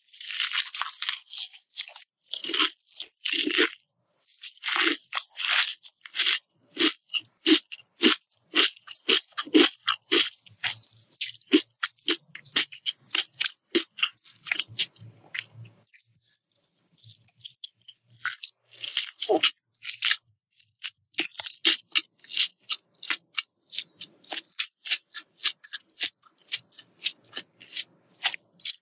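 Close-miked chewing of crispy savory martabak, an Indonesian fried duck-egg pancake: crunching bites in a steady rhythm of about two a second, with a brief near-quiet pause about halfway through.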